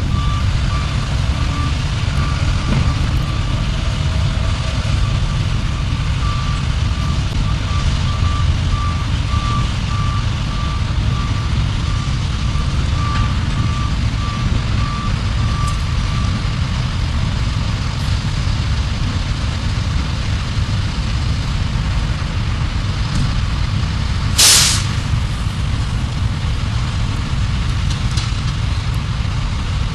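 A heavy diesel vehicle's engine running, with its reversing alarm beeping steadily for roughly the first half. A single short, loud hiss of the air brakes comes about three-quarters of the way through.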